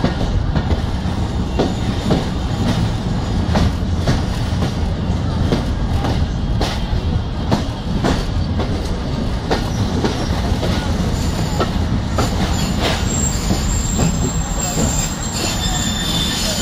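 Passenger train coach rolling into a station, heard from its open doorway: a steady low rumble with the steel wheels clicking over the rail joints. A thin high wheel squeal sets in about two-thirds of the way through as the train slows to arrive.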